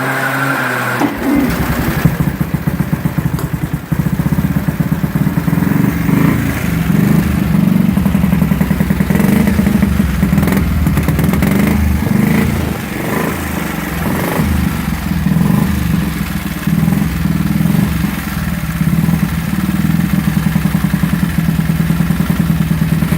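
Single-cylinder 350cc four-valve Rudge engine of a 1920s grasstrack motorcycle, running on methanol with a fast, even firing beat, the revs rising and falling.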